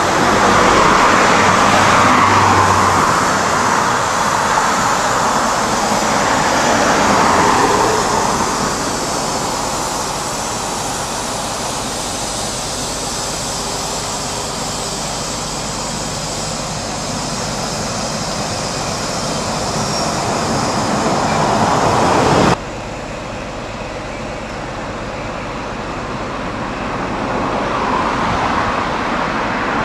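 Diesel High Speed Train (Inter City 125) running past: a steady rush of engine and wheel noise that swells twice in the first eight seconds. The sound drops suddenly about two-thirds of the way through and then builds again near the end.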